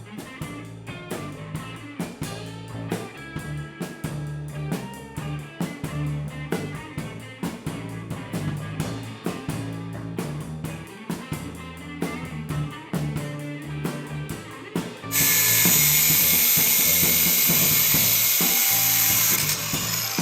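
Background music with a steady beat. About fifteen seconds in, a high-pitched power tool runs loudly over it for about four seconds, then stops.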